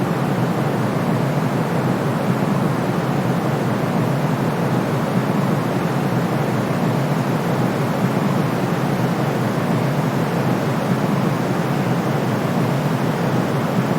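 Steady, unchanging white noise: a constant rushing hiss, strongest in the low-middle range and fading toward the top, with the deepest bass cut away.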